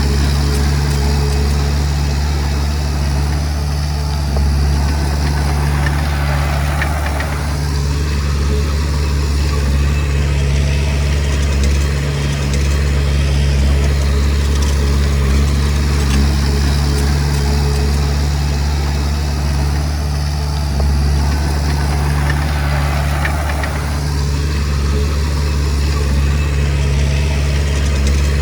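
Komatsu D20P bulldozer's diesel engine running steadily under work, with the mechanical clatter swelling twice as the machine pushes.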